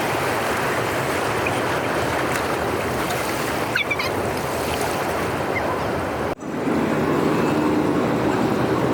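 Heavy runoff water rushing through a dam drainage outlet, a steady noisy wash. About six and a half seconds in the sound drops out for an instant, then the water returns a little louder with a steady low hum under it.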